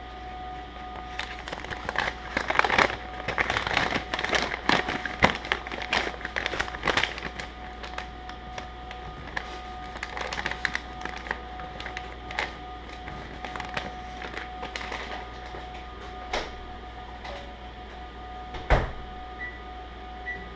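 Popcorn kernels on the cob popping inside a running microwave oven, over its steady hum. The pops come thick and fast at first, then thin out to scattered single pops, with one louder thump near the end.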